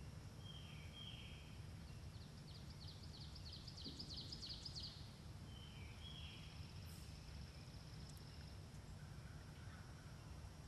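Faint woodland ambience with a steady low rumble, and birds calling: a few short high calls, and a quick run of repeated notes from about two to five seconds in.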